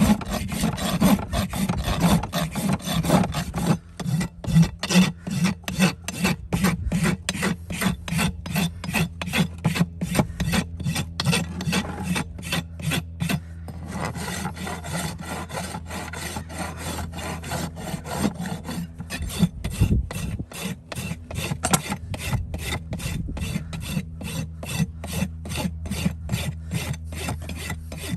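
A farrier's rasp filing a horse's hoof in quick, even, repeated strokes.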